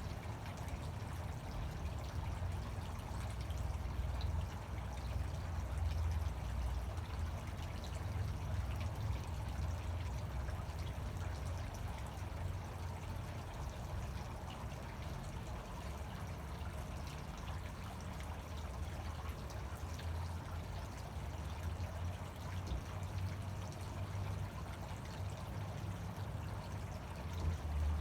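Fountain water pouring and splashing steadily, a continuous rushing with no breaks.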